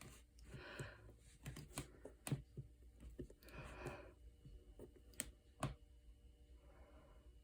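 Faint scattered clicks and taps of buttons being pressed on a small tabletop washing machine's control panel, while someone works out how to start its spin cycle. Two short soft hisses come in, about a second in and again near four seconds.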